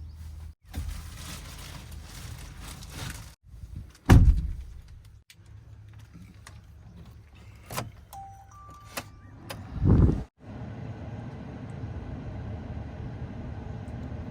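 Diesel engine of heavy machinery running, heard in short clips that cut off abruptly several times. There are two loud heavy thumps, about four and ten seconds in.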